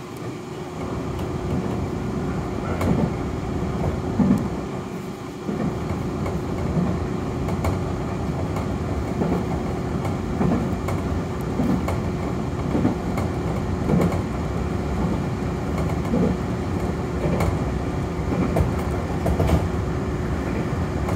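Nankai Koya Line commuter train running on the line, heard from on board: a steady rumble and hum with repeated short thumps from wheels passing rail joints.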